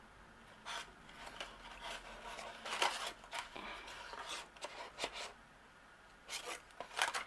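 Scissors cutting through cardstock in a series of short snips and rasps, with the card rustling as it is handled.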